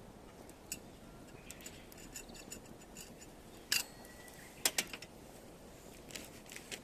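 Firewood crackling as it burns, with scattered small clicks and two sharp pops a little under a second apart near the middle.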